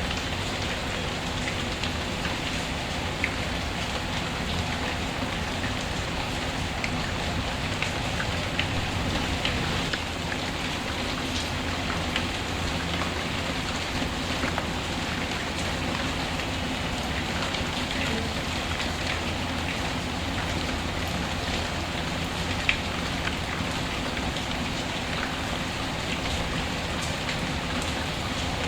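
Steady rain, with a fireplace crackling through it: scattered small clicks and a few sharper pops, the sharpest about three-quarters of the way in.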